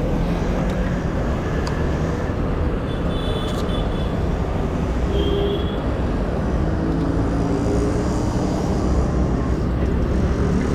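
Motorcycle engine running at speed with steady wind and road noise, as picked up by a helmet-mounted camera while riding through traffic. Two short high-pitched beeps sound about three and five seconds in.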